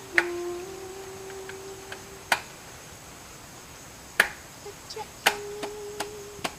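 A series of sharp knocks, four loud ones one to two seconds apart with lighter taps between, over a person humming a steady low note that stops and starts again near the end.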